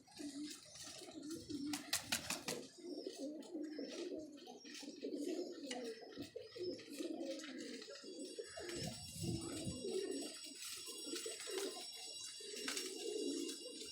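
Many domestic pigeons cooing together without pause in a loft, their low warbling coos overlapping. A quick run of sharp clicks or taps about two seconds in.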